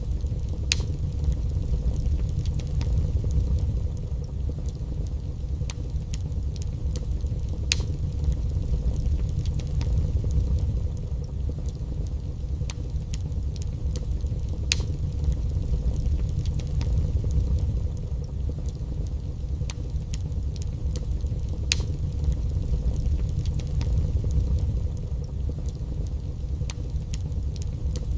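Wood fire in a fireplace crackling: scattered sharp pops and snaps over a steady low roar.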